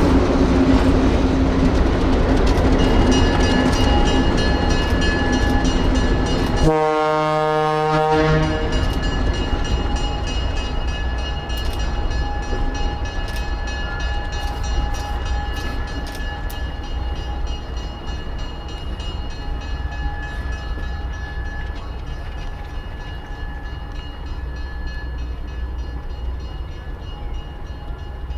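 A train on the move rumbles, loudest at the start and slowly fading away. About seven seconds in it gives one blast of its horn lasting about a second and a half, with faint steady high tones and scattered clicks behind the rumble.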